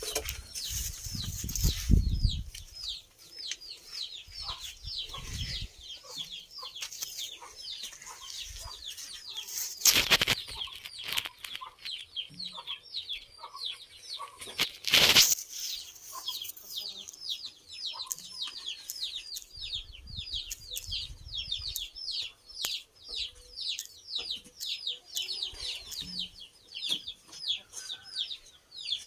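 Birds peeping in a steady run of short, high, falling notes, about four a second. Two loud sharp knocks come about ten and fifteen seconds in, and there are low thumps in the first couple of seconds.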